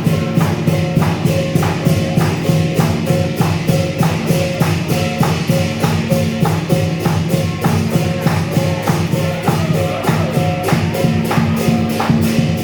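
Chinese lion dance percussion band of drum, cymbals and gong playing a steady, fast beat of about four strokes a second, with the cymbals ringing over held low tones.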